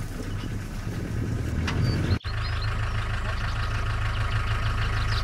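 Car engine idling with a steady low hum. The sound drops out for a moment about two seconds in and comes back as an even steadier hum.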